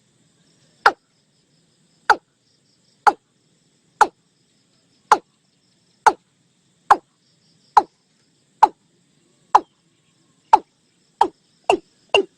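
Watercock calling: a series of short, falling notes about one a second, coming faster near the end.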